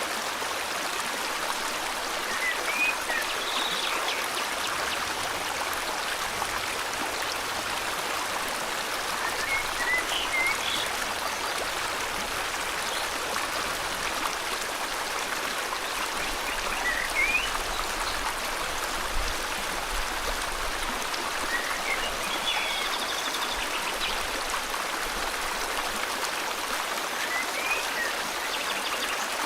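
River water flowing steadily, with a bird giving short rising chirps about every five to seven seconds.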